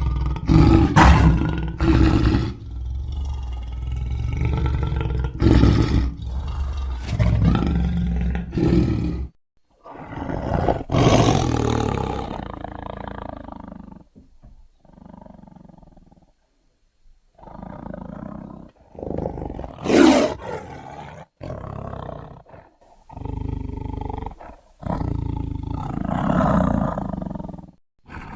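A series of big-cat roars and growls, presented as the sound of a saber-toothed cat (an extinct animal, so a reconstruction or sound effect). They come as separate loud calls, several beginning abruptly, with a quieter stretch and a brief silent gap midway before more roaring.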